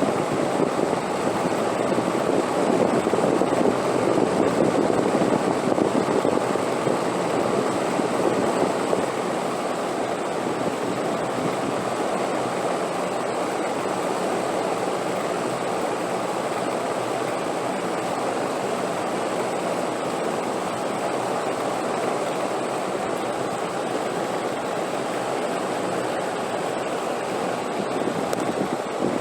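Steady rushing wind, a little louder for the first several seconds and then even.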